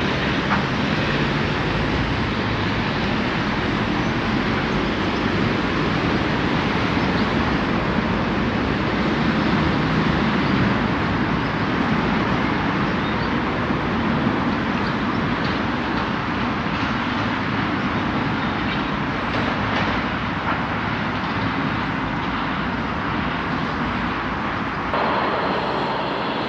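Freightliner freight train passing, a long steady rumble and rail noise from the wagons going by.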